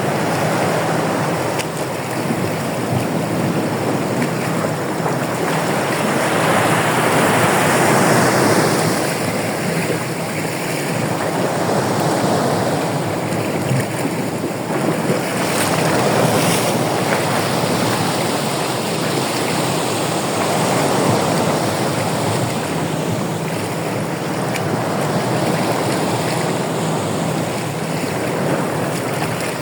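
Ocean surf breaking and washing on a beach: a continuous rush of water that swells and eases every four to five seconds.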